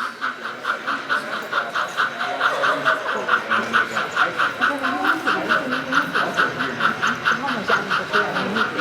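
Steam locomotive chuffing at a rapid, steady rate of about five to six chuffs a second. Faint voices murmur underneath.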